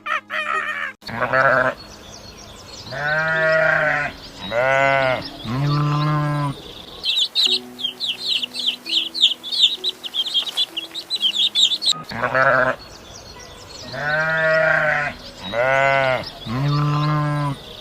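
A farm animal bleating in four quick calls, then a stretch of rapid high chirping, then the same four bleats again, over soft background music.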